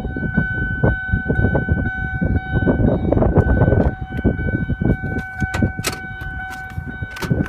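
A steady high-pitched tone with overtones, held throughout, over rumbling handling noise with scattered clicks and knocks.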